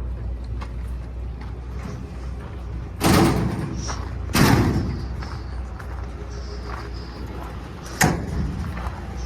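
A steady low engine hum from the truck running, with doors being banged shut three times: two heavy slams about 3 and 4.5 seconds in and a sharper knock near the end.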